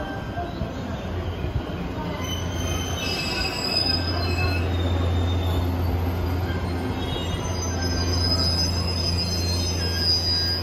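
A JR East E257 series 5500-subseries electric multiple unit pulls slowly into a station platform, its wheels squealing in thin high tones as it brakes. A steady low hum grows stronger about four seconds in.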